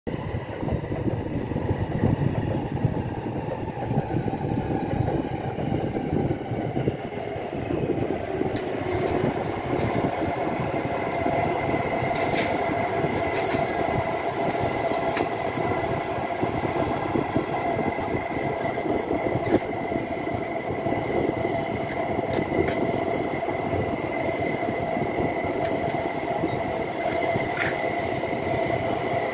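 A coupled Shinkansen train, an E3 series 2000 set and an E5 series set, running past as a steady rumble of wheels on rail. A steady hum comes in about eight seconds in and holds, with a few sharp clicks scattered through.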